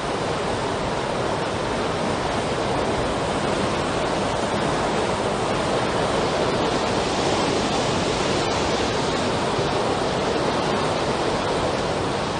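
Steady, unbroken rushing of water in a tropical storm, even in level throughout with no distinct events.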